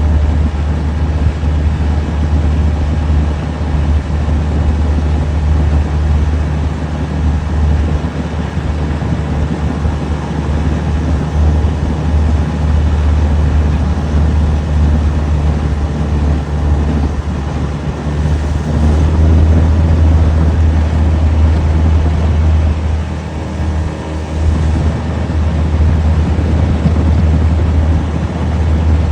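Boat motor running steadily underway, a loud low drone with an even hiss over it.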